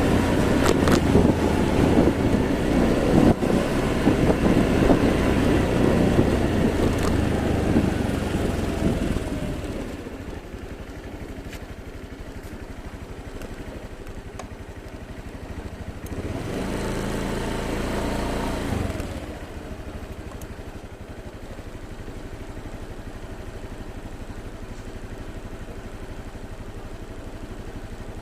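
Motorbike engine running while riding, at first with loud wind and road rush that drops away about nine seconds in, leaving the engine running more quietly. A louder engine note swells for a few seconds in the second half, then falls back.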